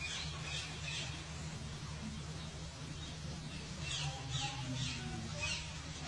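Tailorbird calling in quick series of high, downward-slurred notes, about two to three a second. There is a short bout at the start and a longer one from about four seconds in, over a steady low hum.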